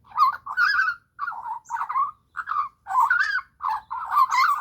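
Young Australian magpie calling back in a run of short, wavering warbled calls, about eight in a row with brief gaps between them.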